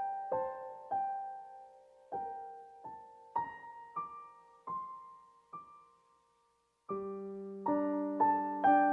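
Background piano music: slow single notes that fade out briefly, then fuller sustained chords from about seven seconds in.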